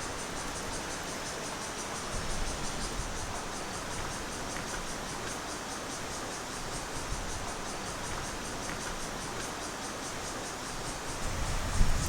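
Crickets chirping in a rapid, even pulse over a steady background hiss, with a low thump near the end.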